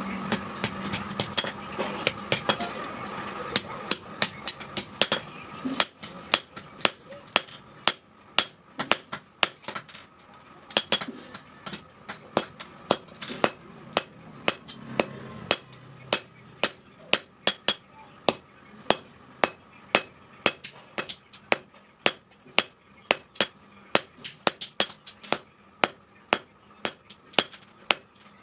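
Blacksmith's hand hammer striking steel on an anvil in a steady rhythm, about two to three blows a second, some blows ringing briefly. A steady hum sits under the first few seconds and fades.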